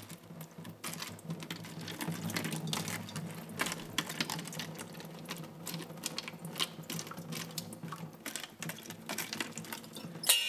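Water poured into plastic seed-starting cells onto dry sprouting-medium pellets, trickling and dripping through a screen with many small irregular ticks and patters.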